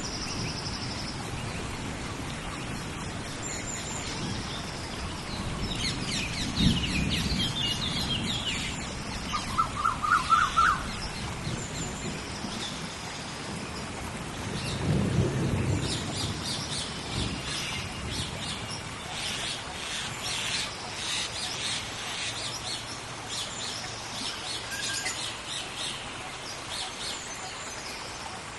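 Tropical rainforest rainstorm: steady rain with thunder rumbling twice, once about a quarter of the way in and again about halfway through. Birds chirp and call over it, with a quick run of calls about a third of the way in.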